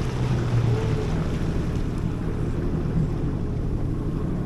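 Jet ski engine running low and steady, with wind noise on the microphone.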